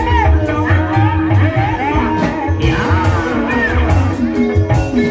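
Live gending ebeg: gamelan accompaniment with steady drum strokes and sustained metallophone notes, under a singer's gliding vocal line.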